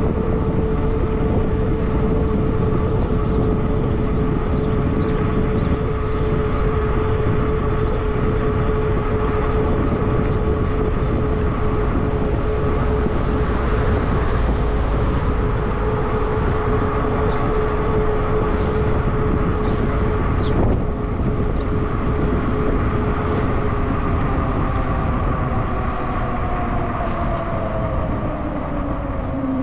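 Wind rushing over the microphone on a Zota Zephyr fat-tire e-bike moving at road speed, with a steady hum from the bike running along the pavement. Near the end the hum drops in pitch as the bike slows.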